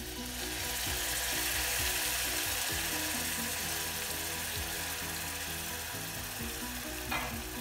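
Butter, garlic, onion and wine sauce sizzling hard in a hot pan as lemon juice goes in. The hiss jumps up at once and then slowly eases off.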